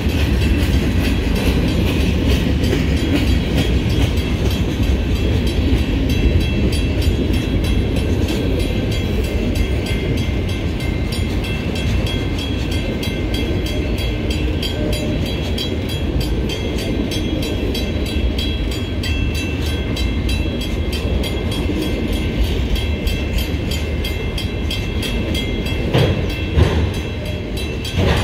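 Freight cars of a Union Pacific train rolling past very slowly, giving a steady low rumble of steel wheels on the rails, with a few louder knocks near the end. A grade-crossing bell rings steadily over it.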